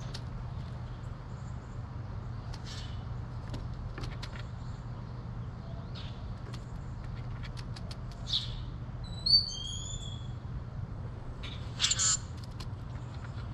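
Wild birds calling at a backyard seed feeder. About two-thirds through comes a quick run of high, thin whistled notes, and near the end a louder harsh call. Scattered soft clicks and a steady low hum sit underneath.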